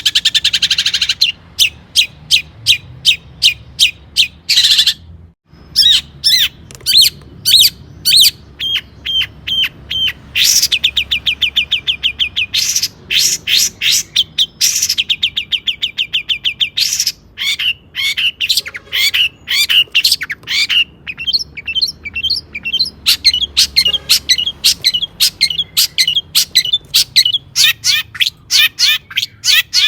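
Long-tailed shrike (cendet) singing loudly: long runs of sharp repeated chattering notes and short buzzy phrases, with a brief break about five seconds in.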